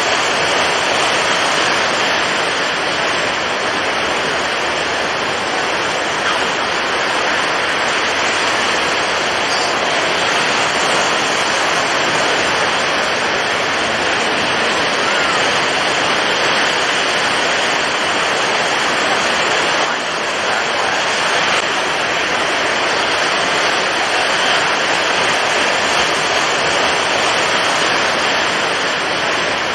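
Storm at sea: strong wind and heavy waves blending into one dense, steady rush of noise with no distinct breaks.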